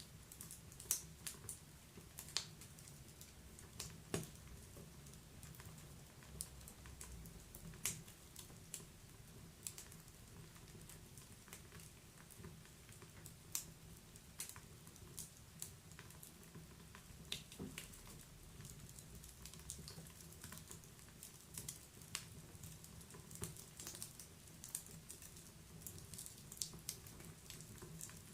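Wood fire crackling in a fireplace: irregular sharp pops and snaps of burning logs over a faint low rumble of the flames.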